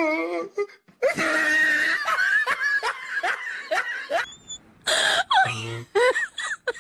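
Laughter: a long, wavering laugh, then a quick run of short chuckles near the end.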